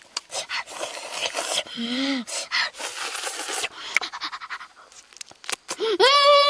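A boy's voice: sharp clicks, then loud, heavy panting breaths, and about six seconds in a long, high-pitched held cry.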